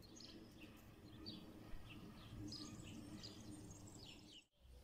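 Faint birds chirping outdoors: short, scattered high calls over a low, steady background hum, the sound dropping out briefly near the end.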